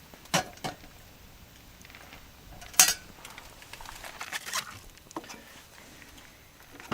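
Sharp clinks and knocks of cooking utensils and dishes being handled, a few separate strikes, the loudest about three seconds in.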